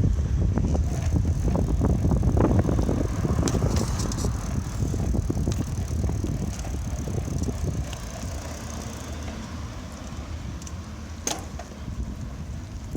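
Wind buffeting the microphone and road rumble while riding a bicycle, with small rattles and clicks and one sharp knock near the end; the rumble eases off in the second half.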